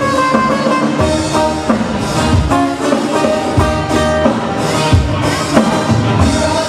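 Live Hawaiian band playing an instrumental passage with no vocals, bass notes falling on a steady beat about once a second.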